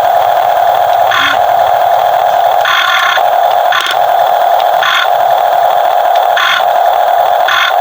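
RC excavator running at work: a steady mechanical whine, broken every second or two by short spells of a harsher, higher-pitched sound.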